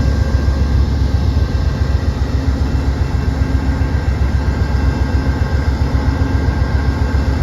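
GE P42DC diesel locomotive's V16 prime mover idling at a station stop: a loud, steady low rumble with a constant hum over it.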